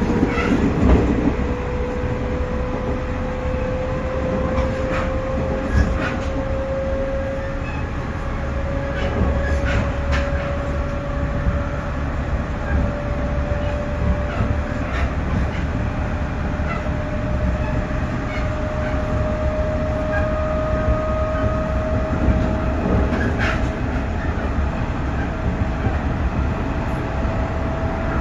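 JR Central 311 series electric train running at speed, heard from on board: a steady rumble of wheels on rail with occasional rail-joint clicks, and a motor whine rising slowly in pitch as the train picks up speed.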